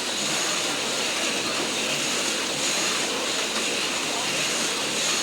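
HO-scale slot cars running laps on the track, their small electric motors giving a steady high whine.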